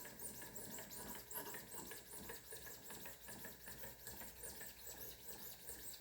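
2000-grit whetstone scrubbing back and forth along a wet VG10 chef knife's edge: a faint, quick run of soft strokes. It is very quiet with no scratching sound, the stone riding on a film of soapy water.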